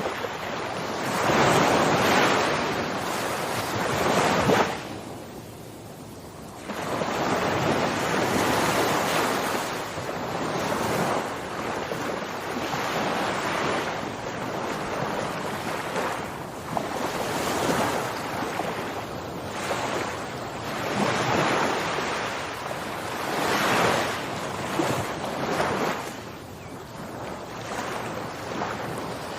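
Waves washing in: a steady rushing that swells and falls back every few seconds, with a deeper lull about five seconds in.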